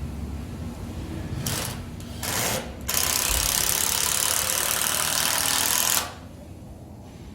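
Power tool cutting wood: three short bursts, then a steady cut of about three seconds that stops abruptly.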